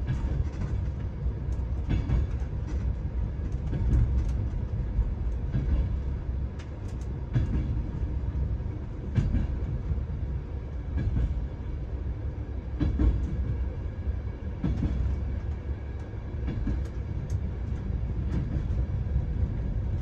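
Passenger train carriage running along the track, heard from inside the compartment: a steady low rumble with scattered clicks and knocks at irregular intervals.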